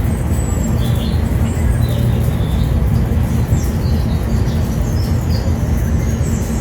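Small birds chirping in short scattered calls over a loud, steady low rumble.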